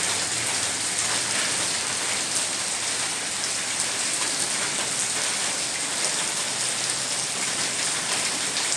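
Heavy rain falling steadily, a dense, even hiss of drops hitting the ground and surfaces.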